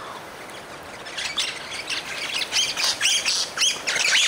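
Birds at a feeder squawking: harsh calls repeated in quick succession, starting about a second in and getting busier and louder.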